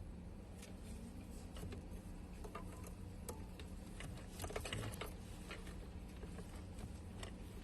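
Light clicks, taps and rattles of fuel pump module parts being handled and fitted by hand, with a quick cluster of clicks about halfway through, over a steady low hum.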